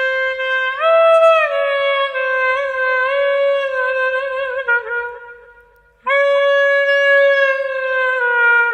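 Clarinet playing a slow melody of long held notes, with a brief rise in pitch about a second in. The note fades out about five seconds in, and a new long note starts a second later and slowly sags in pitch.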